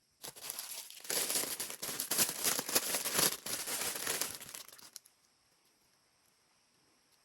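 Packaging wrap crinkling as it is handled, for about five seconds, getting louder about a second in and stopping abruptly.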